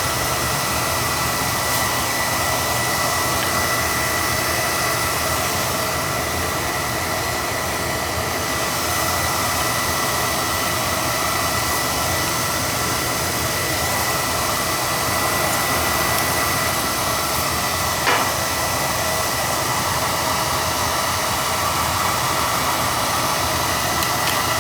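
Beckett oil burner firing steadily in a boiler: an even rush of blower and flame with a thin steady high whine, and one brief click about eighteen seconds in. It is running a lot better now that the boiler's passes have been brushed clean.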